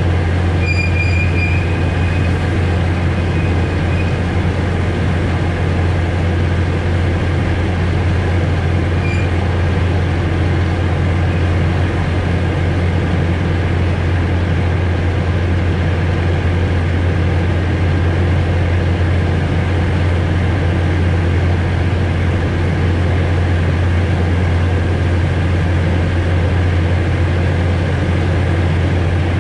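Narrow-gauge forest railway train running along the track, heard from the driving cab: a steady low drone over a continuous rail rumble. A short high-pitched wheel squeal comes about a second in, and a fainter one at about nine seconds.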